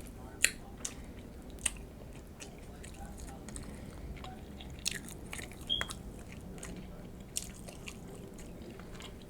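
Close-miked chewing of nachos, with a handful of sharp, irregular crunches of the chips between quieter mouth sounds.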